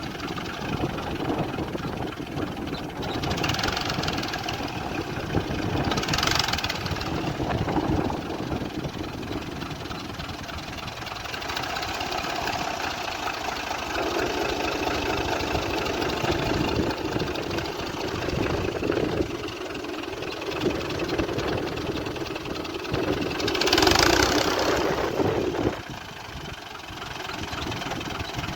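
Fiat 480 tractor's diesel engine running steadily, with a few short louder bursts of higher rushing noise: one about three to four seconds in, one at six seconds, and one near the end.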